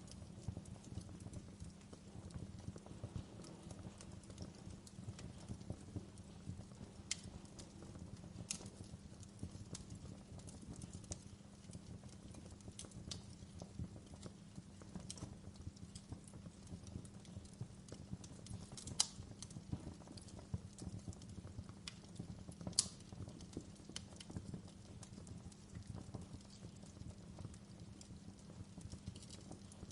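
Log fire crackling: a low steady rumble of burning wood under dense small crackles, with a few sharper pops every few seconds. The loudest pops come about two-thirds and three-quarters of the way in.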